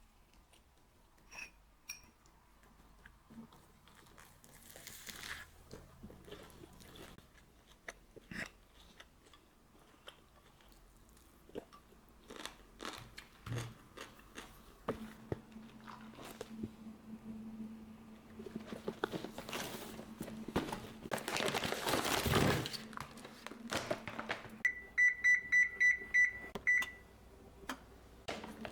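Kitchen handling noises: scattered clicks, rustling and crunching. About halfway in a steady low hum sets in, and near the end a run of about six short, loud electronic beeps sounds, like a kitchen appliance's signal.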